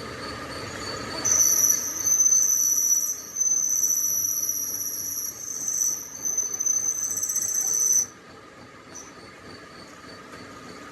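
High-pitched squeal of a cutting tool on steel, starting about a second in with a few short breaks, then cutting off suddenly. A faint, even ticking from the machine runs underneath.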